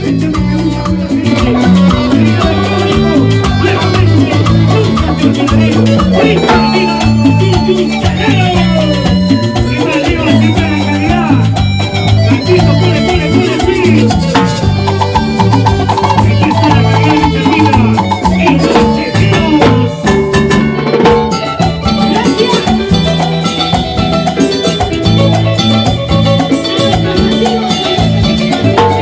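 A live band playing salsa-style Latin dance music, with a stepping bass line and busy percussion.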